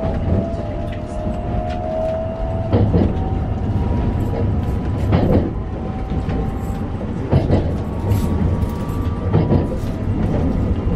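Cabin sound of a JR West 289 series electric train running: a steady low rumble from wheels and track, with faint whining tones that climb slowly in pitch. A short clunk from the track comes every two seconds or so.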